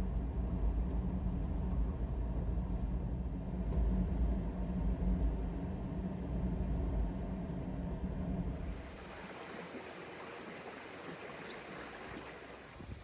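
A vehicle engine running with a steady low hum. About eight and a half seconds in, it gives way suddenly to a quieter, even hiss.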